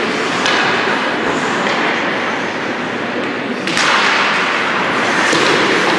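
Steady crowd and arena noise with a few sharp hits, the loudest about two-thirds of the way in, typical of play at a match.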